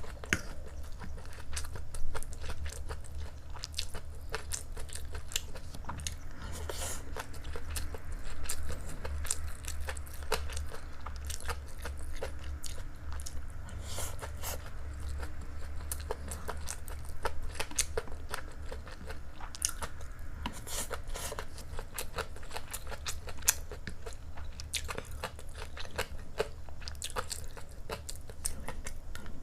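A person chewing and eating fried rice close to the microphone: a steady run of small crisp clicks and mouth sounds, over a low steady hum.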